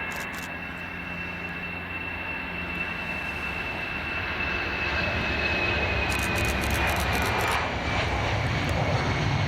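Jet aircraft engines: a high turbine whine drifting slowly down in pitch over a low rumble that grows louder through the second half.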